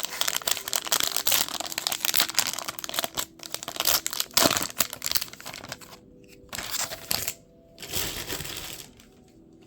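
Baseball card pack wrapper crinkling and rustling as it is handled and torn open, with two shorter bursts of crinkling near the end.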